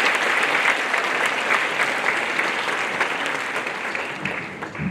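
Audience applauding after a choir song, the clapping fading gradually toward the end.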